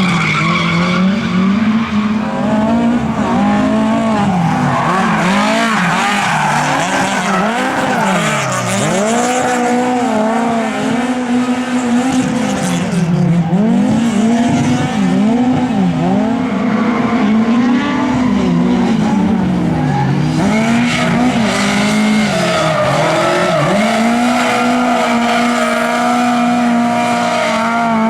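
Lada race car engines revving hard, the revs dropping and climbing again and again and held high for several seconds at a time, with tyre squeal.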